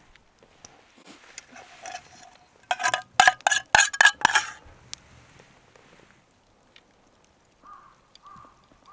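Dishes or cookware clinking: a quick run of about seven sharp, ringing clinks, followed by two short, softer sounds near the end.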